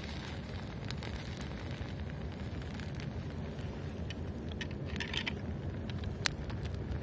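Small twig campfire, lit from a hunting match, crackling with scattered sharp pops as the damp sticks begin to catch, over a low steady rumble.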